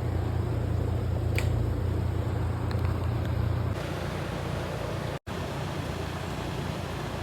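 Steady low mechanical hum with background noise. The hum drops away abruptly about halfway through, leaving a lighter steady noise broken once by a split-second gap.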